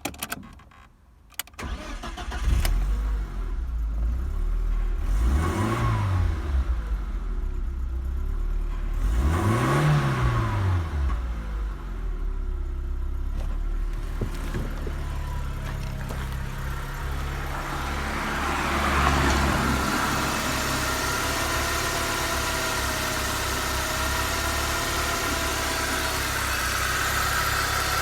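BMW M43B16 1.6-litre four-cylinder petrol engine starting, then revved up and back down twice before settling into a steady idle.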